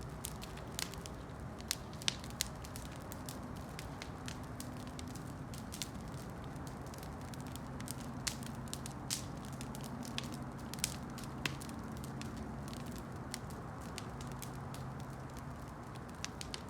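Wood campfire burning: irregular sharp crackles and pops over a steady low hiss of the fire.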